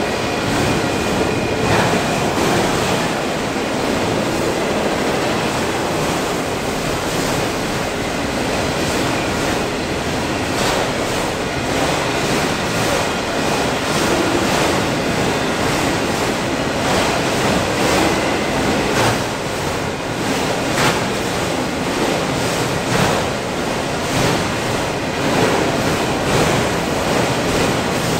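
Long freight train of autorack cars rolling past at speed: a steady rumble and rush of steel wheels on rail, with occasional sharp clacks.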